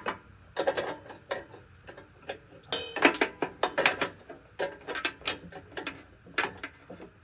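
Hand ratchet clicking in short irregular runs as a stuck bolt on a riding mower is worked back and forth to snap it off.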